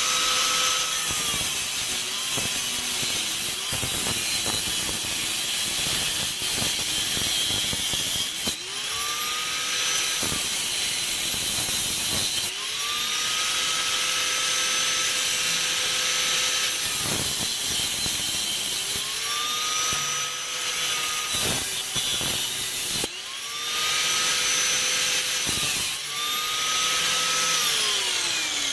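Power cutting tool, most likely an angle grinder, cutting through a steel exhaust pipe. The motor whine rises as it spins up, holds steady over gritty cutting noise and winds down when released, about five times in a row.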